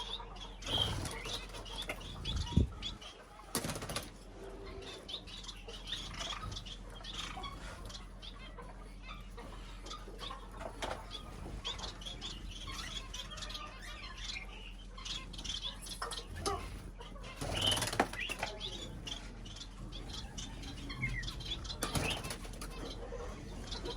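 Birds fluttering and flapping their wings, with scattered short high chirps and several louder flurries of wingbeats.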